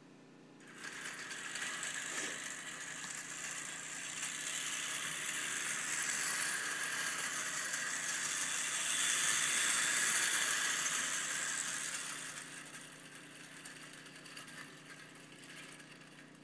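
1930s Bing clockwork toy train running under its wound spring: a steady mechanical whirr with rattling that starts suddenly about a second in. It is loudest in the middle and fades over the last few seconds as the spring runs down.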